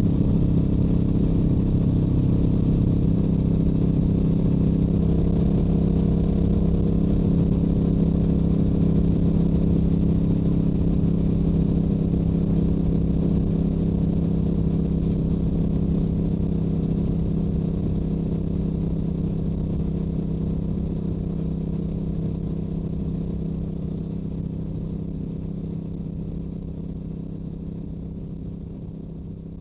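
Stock exhaust of a Yamaha YZF-R7's parallel-twin engine running at a steady speed, its note holding constant, then gradually fading away over the last ten seconds or so.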